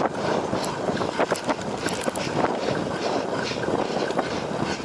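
Cyclocross bike ridden over rough ground: steady tyre noise with frequent clicks and rattles from the bike, and wind on the microphone.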